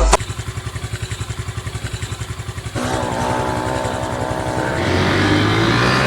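Motorcycle engine idling with a fast, even putter, then getting louder about three seconds in and revving up, its pitch rising steadily near the end as it accelerates.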